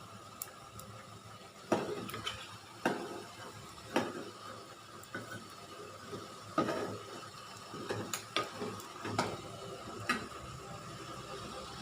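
Kitchen utensils and cookware clinking and knocking at irregular intervals, about eight sharp strikes with a short ring after each.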